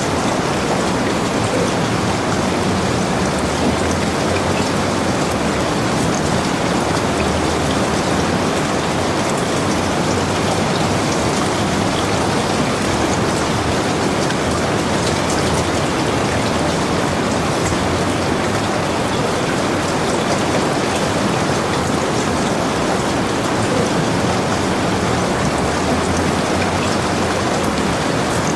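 Heavy rain falling steadily: a dense, even hiss with faint sharp ticks of single drops through it.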